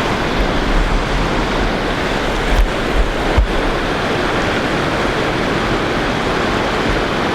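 Steady rush of the Doubs river's fast-flowing water, loud and even, with wind buffeting the microphone in the low end. Two brief knocks come a little after the middle.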